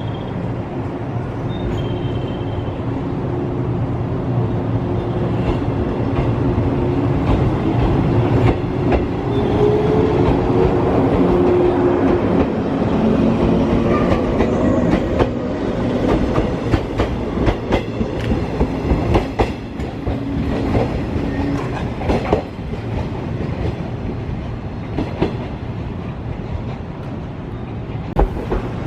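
A train moving through the station, its motors humming with tones that shift in pitch during the first half. From about halfway through, its wheels click over the rail joints.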